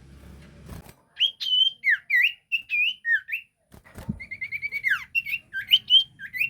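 A sirtu songbird singing energetically in short whistled phrases of notes that sweep up and down, with a quick run of repeated notes about four seconds in. A brief knock comes just before that run.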